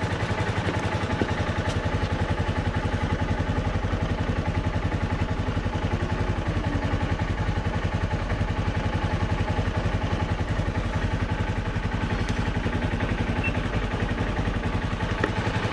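Dirt bike engine running steadily at a constant low speed close by, an even rapid chug with no revving.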